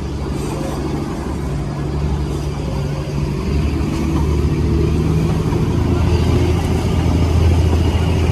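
Darjeeling toy train running, a steady low rumble with a deep hum that grows gradually louder.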